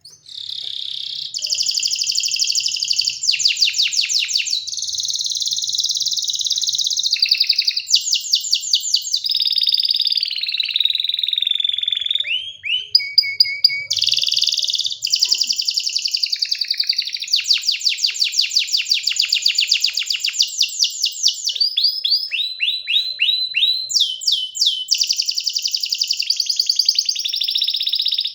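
Domestic canary singing a long, unbroken song of fast trills and rolls, moving from one rapid run of repeated notes to the next, with a few quick falling whistled notes in between.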